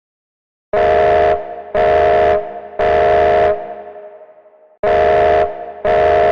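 Fire alarm sounding in the three-pulse evacuation pattern: three loud, steady blasts, a pause, then the group of three starting again.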